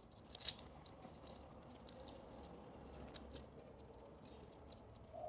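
Close-up chewing of a mouthful of noodles and shredded chicken, with scattered wet mouth clicks; the loudest comes about half a second in.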